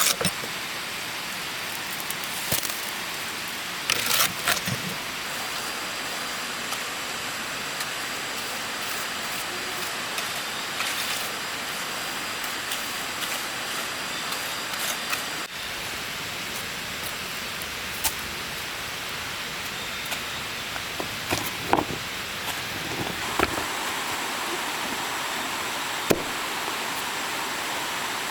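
Steady rushing of flowing stream water, with a few sharp knocks scattered through it, a cluster about four seconds in and several more in the second half.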